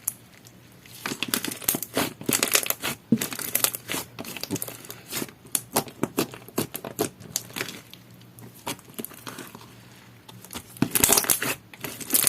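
Clear slime with plastic decoden charms mixed in, squeezed, stretched and pressed by hand: a run of sticky clicks and crackles that eases off about eight seconds in and picks up again near the end.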